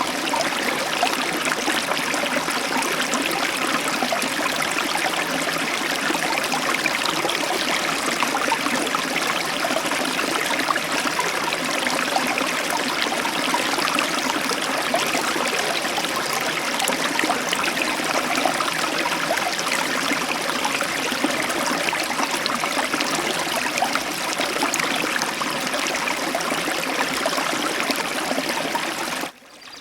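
Heavy tropical downpour, a steady dense hiss of rain coming in through an open balcony door. Near the end the sound drops off sharply and carries on much quieter.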